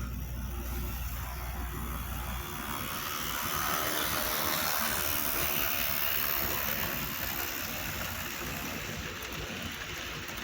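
HO scale model train running on the layout: a steady rushing of the motor and wheels on the rails that swells for a few seconds as it passes, then eases. A low hum cuts out about two seconds in.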